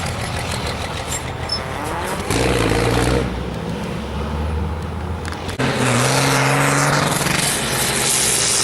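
Truck engine revving under load, its pitch climbing twice and getting louder from about halfway through.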